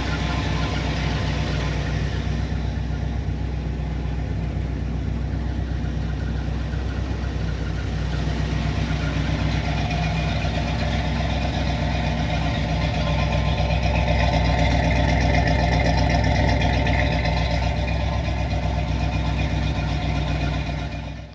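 Car engine running steadily at idle, a little louder for a few seconds past the middle.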